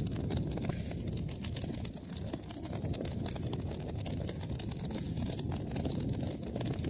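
Wood fire burning: a steady low rumble of flames under a dense run of small crackles and pops.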